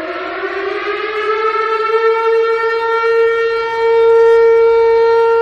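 Civil defense warning siren winding up, its wail rising in pitch over about two seconds and then holding a steady tone, a little louder near the end.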